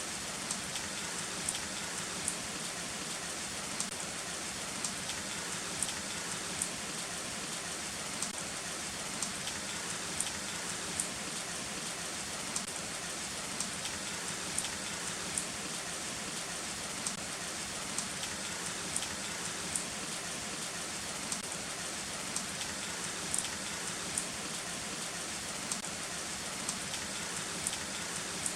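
Heavy rain falling steadily, with sharp ticks of individual drops striking close by, about once or twice a second. No thunder is heard.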